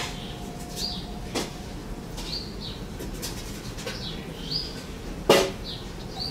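A small bird chirping over and over, short high notes about once a second, with a few knocks, the loudest about five seconds in.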